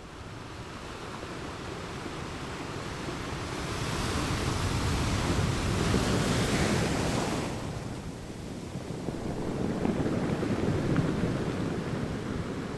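Ocean surf breaking and washing up the beach: a wave swells about four seconds in, peaks with a loud hiss and fades near eight seconds, and a smaller swell follows. Wind rumbles on the microphone throughout.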